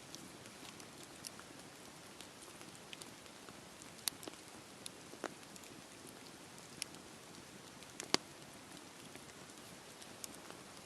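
Campfire crackling in steady rain: an even hiss of rain with scattered sharp pops and ticks, the loudest about four and eight seconds in.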